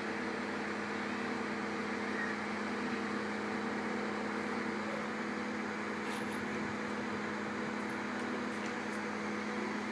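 Heavy vehicle engine running steadily at a constant speed, an even hum, with a few faint clicks late on.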